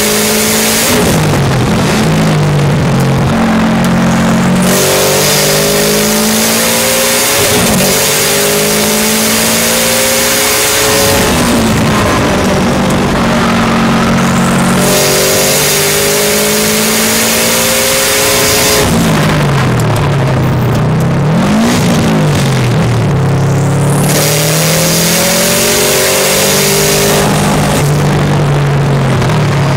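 Subaru Impreza STi time-attack car's turbocharged flat-four engine under hard load in fourth gear at around 80 mph, heard from inside the cabin. Its pitch dips and climbs again several times as the throttle is eased and reapplied, over loud wind and road hiss.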